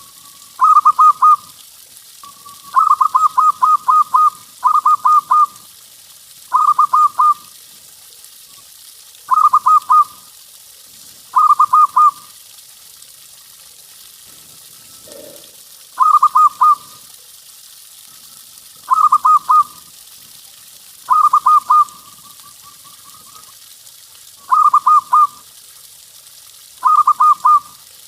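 Zebra dove (perkutut) cooing: short phrases of quick rolling coos, repeated every two to three seconds, over a steady hiss.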